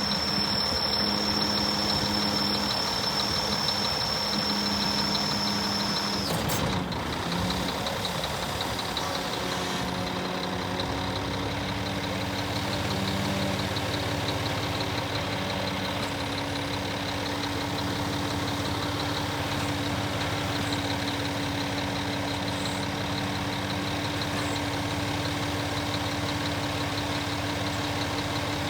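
Scania R480 truck's diesel engine idling steadily. A high whine stops about six seconds in, and the engine's low note shifts a few seconds later.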